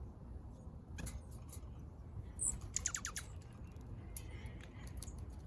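A small songbird calling: a high note, then a quick run of about six down-slurred notes about three seconds in, with a few faint clicks before it.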